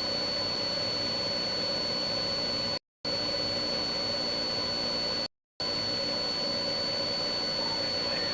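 Steady engine, road and wind noise inside a patrol car driving at speed in a pursuit, with a faint steady high whine over it. The sound drops out to dead silence twice, briefly, a little under 3 seconds in and again past 5 seconds.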